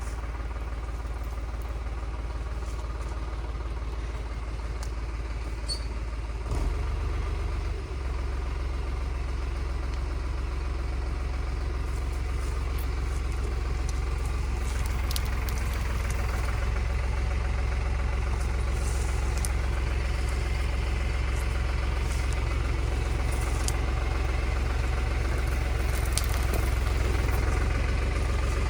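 Tractor engine running steadily, its note shifting about six and a half seconds in, with a few light clicks over the top.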